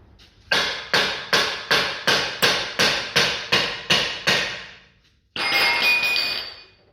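A hammer striking metal: about eleven blows at an even pace of roughly three a second, each ringing briefly. This is followed by a steady, noisy burst lasting about a second.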